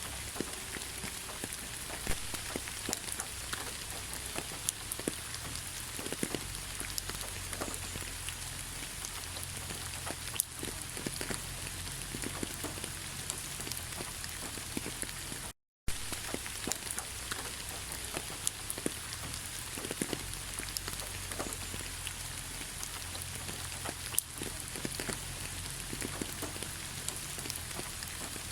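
Heavy rain falling: a steady hiss full of individual drops ticking and pattering on a surface. About halfway through, the sound cuts out completely for a fraction of a second, then resumes unchanged.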